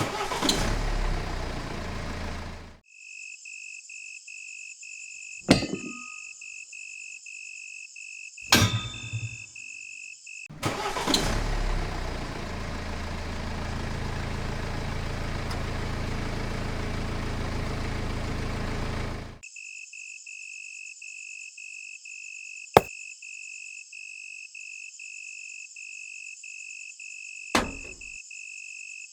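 Small electric hobby motor running with a steady low hum and a noisy whirr: once at the start for about three seconds, then again for about nine seconds from about ten seconds in. Between the runs a high, steady, rapidly pulsing buzz is heard, with a few sharp clicks.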